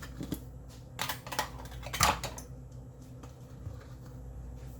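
A few light knocks and clicks of kitchen utensils as one cup of flour is measured into the batter, the loudest about two seconds in, over a steady low hum.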